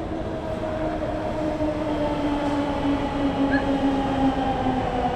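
Metro train pulling into the station: rumbling wheel and track noise with a motor whine that slowly falls in pitch as the train slows, growing a little louder.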